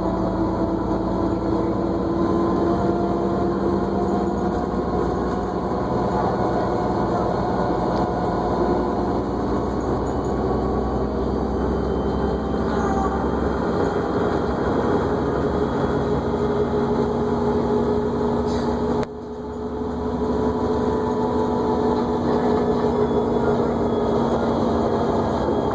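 New Flyer D40LFR diesel transit bus under way, heard from inside: the engine runs over road rumble with a steady drivetrain whine that climbs slowly in pitch as the bus gathers speed. About three-quarters of the way through, the sound drops suddenly for a moment, then builds back.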